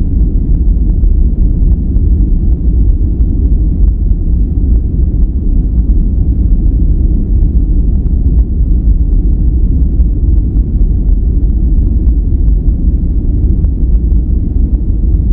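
Continuous relaxation noise track, billed as white noise but weighted to the low end: an even, deep noise with little hiss on top, steady throughout with no changes.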